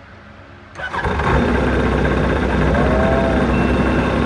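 Yamaha 1100 jet ski engine starting suddenly about a second in and then running steadily.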